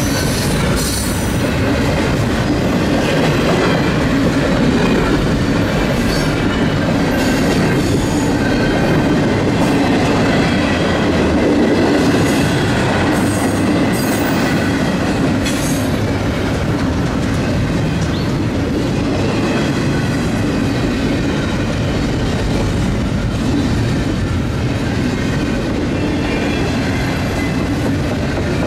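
Double-stack container freight train's well cars rolling past, a steady loud rumble of steel wheels on rail. Clacks from the rail joints come at intervals, with thin high wheel squeal over the top.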